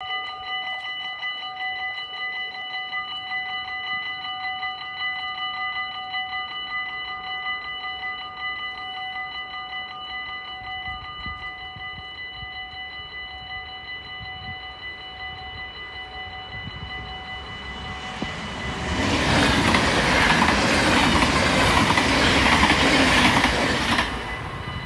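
Dutch level-crossing warning bell ringing rapidly and steadily. About eighteen seconds in, a train passes the crossing for about five seconds; it is the loudest sound, and then it dies away while the bell keeps ringing.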